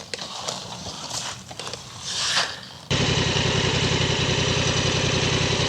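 Scuffs and clicks for the first half, then a motorcycle engine idling steadily cuts in abruptly about halfway through.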